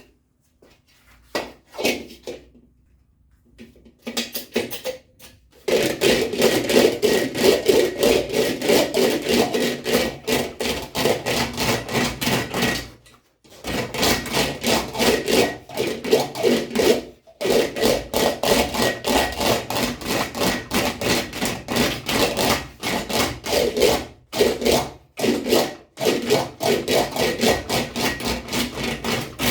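An English wheel rolling an aluminium panel back and forth: a rapid rhythmic rubbing of strokes, a few a second, broken by short pauses. It starts after a few scattered knocks about five seconds in.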